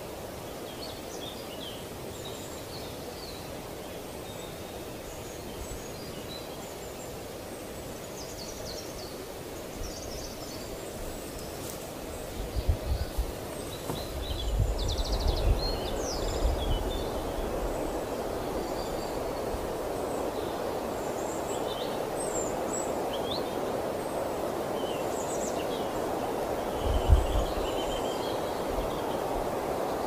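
Wild birds giving many short, high chirps and calls over a steady outdoor background noise. Low rumbling gusts of wind buffet the microphone about halfway through and, loudest, near the end.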